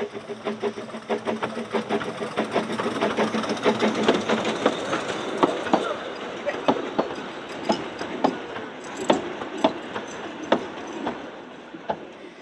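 Narrow-gauge train passing, its wheels clicking over the rail joints. The clicks come thick at first, then spread out to about two a second and fade near the end, over a low steady hum that stops after the first few seconds.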